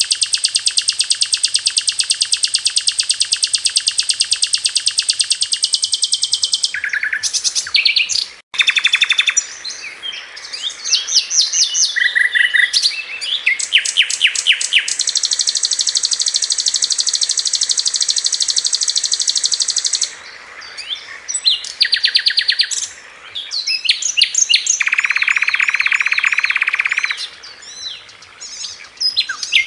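Sikatan londo flycatcher singing: long, very fast high trills ('tembakan') alternating with varied chirps, short fast phrases and a lower trill near the end. The song breaks off abruptly for an instant about eight and a half seconds in.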